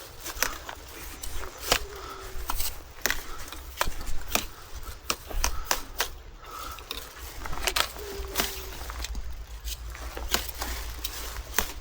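Irregular sharp clicks and taps, a few a second, over a steady low rumble.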